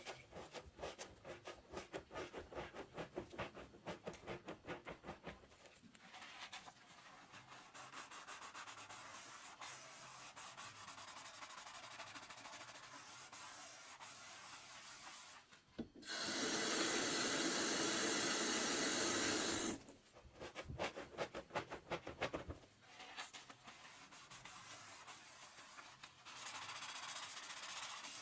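Soapy sponge scrubbing dishes in a kitchen sink: quick back-and-forth rubbing strokes, easing into steadier scrubbing, with a louder steady rushing sound from about 16 to 20 seconds in before the rapid strokes return.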